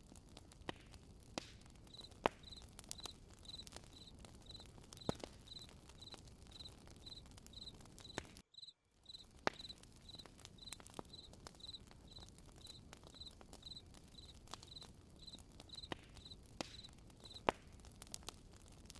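Faint campfire crackling with scattered sharp pops, and a cricket chirping steadily about twice a second from about two seconds in until near the end. All sound cuts out for a split second about halfway.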